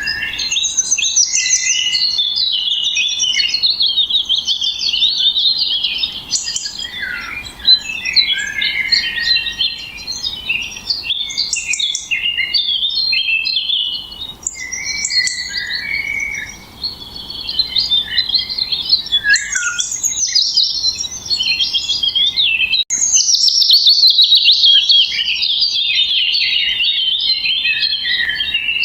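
Songbirds chirping and singing in quick, varied, high-pitched phrases almost without pause, with a couple of short lulls midway.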